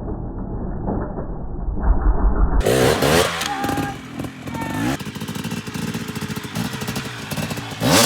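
Two-stroke dirt bike engine, muffled at first. It then revs sharply up and down twice in quick throttle blips and settles into a fast, steady pulsing run before revving up again near the end.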